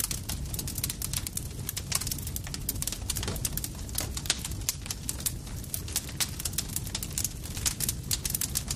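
Campfire crackling: irregular sharp pops and snaps from burning wood, several a second, over a steady low rumble of flames.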